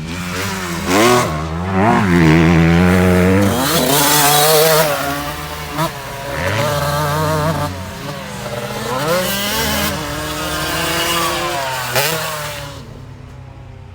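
Motocross bike engine revving hard, its pitch climbing and dropping again and again as the throttle opens and closes, settling lower near the end.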